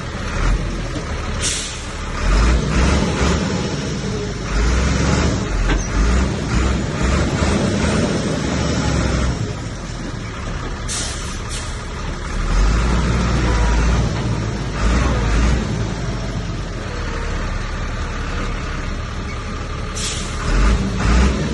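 Heavy diesel earth-moving machinery running under load, a low rumble that surges louder several times, with a few short, sharp bursts of hissing noise.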